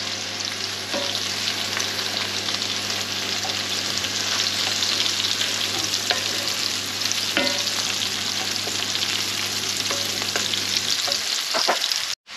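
Diced shallots sizzling in hot melted ghee in an enamelled cast-iron casserole, with a wooden spoon stirring now and then. A steady low hum runs underneath and stops about eleven seconds in.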